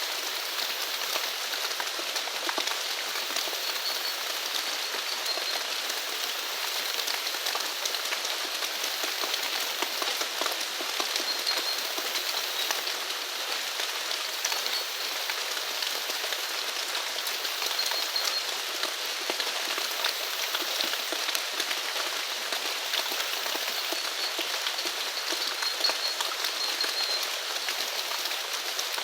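Steady rain falling, a dense patter of drops, with short faint high chirps every few seconds.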